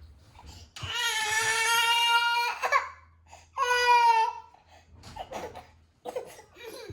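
A young child crying: a long, high wail of about two seconds, then a shorter second wail, with small whimpering sounds afterwards.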